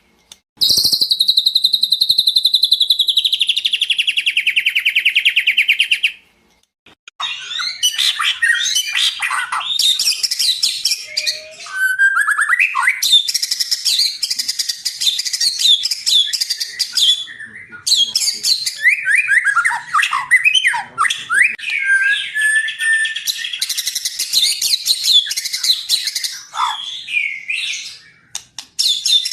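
White-rumped shama singing loudly. For about the first six seconds it gives a rapid, even buzzing trill; after a short pause it launches into a long, varied run of fast whistles, slurred sweeps and chattering notes.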